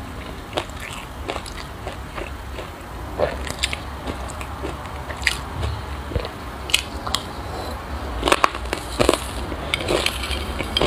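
Close-miked crunching and chewing of a mouthful of sesame seeds mixed with passion fruit, irregular crisp crunches, loudest about eight to nine seconds in.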